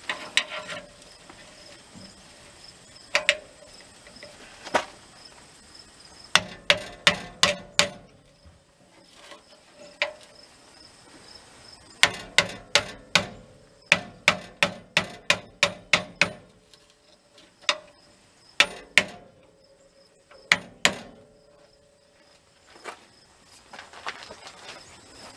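Hammer blows in quick runs of about three a second, knocking a glued-on door gasket loose from an outdoor furnace door. A faint, steady high insect trill runs underneath.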